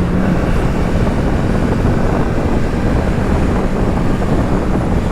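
Kawasaki Z650's parallel-twin engine running at highway speed, much of it buried under wind rushing over the microphone.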